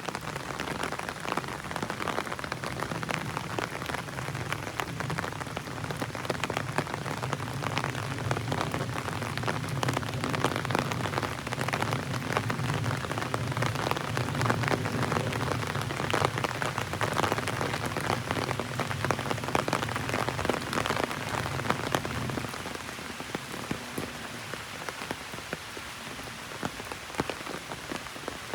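Heavy rain drumming on an umbrella overhead, a dense patter of drops. A low steady rumble runs underneath and stops about three quarters of the way through.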